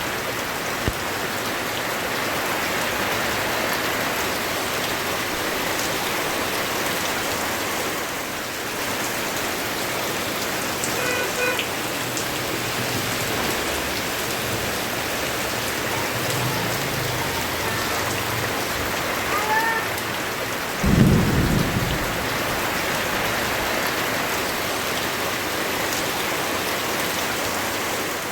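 Steady, heavy rain falling on surfaces, with a low rumble of thunder and a loud clap of thunder about three quarters of the way through.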